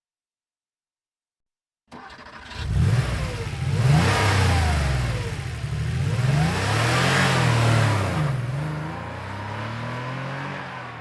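1990 Porsche 911's air-cooled flat-six, heard from the rear, starting about two seconds in with a short crank before it catches. It then revs up and down several times and settles to a lower, steadier note near the end.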